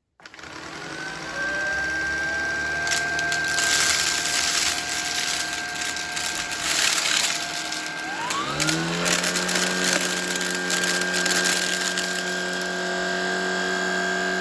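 Shark Vertex cordless stick vacuum running with a steady motor whine, popcorn kernels rattling and clicking up through it. About eight seconds in the motor note glides up and settles at a new steady pitch as the vacuum is switched over to its carpet mode.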